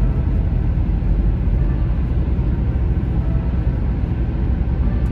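Steady road noise inside a moving car at highway speed: a constant low rumble of tyres and engine.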